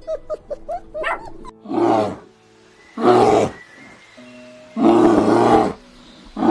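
A big cat roaring three times, each roar short and rough, about a second apart, over background music. A few short dog yips are heard in the first second or so.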